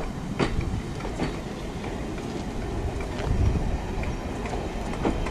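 4-BIG electric multiple unit coaches rolling slowly past, with a low rumble from the train and a few sharp clicks as the wheels cross the rail joints.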